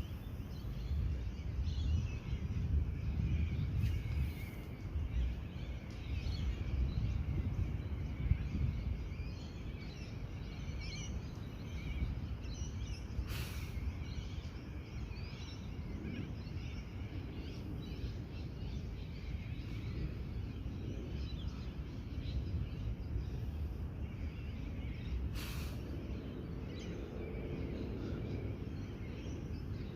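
Outdoor ambience: a steady low rumble of background noise with small birds chirping now and then. Two brief sharp clicks, one near the middle and one near the end.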